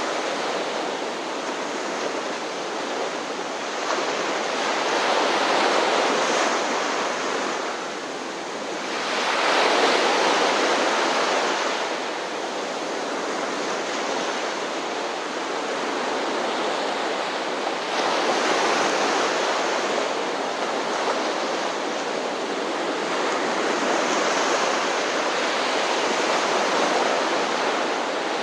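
Ocean surf: continuous wash of waves, swelling louder as sets break every several seconds, most strongly about ten seconds in.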